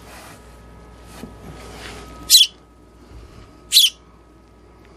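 Baby sparrow giving two short, high-pitched chirps about a second and a half apart: the begging calls of a nestling being hand-fed.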